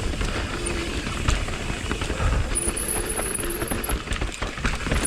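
Mountain bike descending a rough trail, with tyres and frame rattling and many knocks over roots and rocks. About two and a half seconds in, and again near the end, the disc brakes (Galfer Shark rotors with MTX pads) give a high squeal. It is the persistent brake squeak that changing pads and rotors has not cured.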